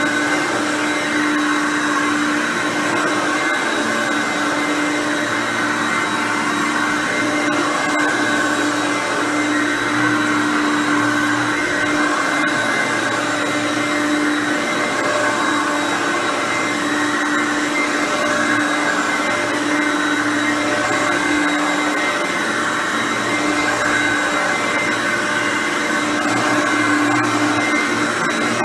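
Hoover Concept One U4219 upright bagged vacuum cleaner running steadily on its normal setting while vacuuming, with its motor hum swelling and easing every couple of seconds.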